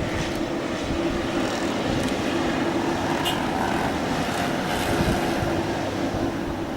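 Steady jet engine noise from a Boeing 787 airliner, an even rush with a constant low hum through it.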